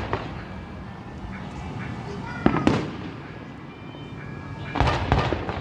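Aerial firework shells bursting overhead: one bang about two and a half seconds in, then a quick cluster of bangs near the end, each with a rumbling echo.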